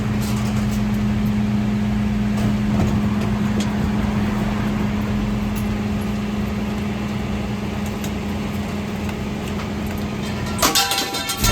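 Mercedes Econic refuse truck running with a steady hum, then a short burst of loud clattering near the end.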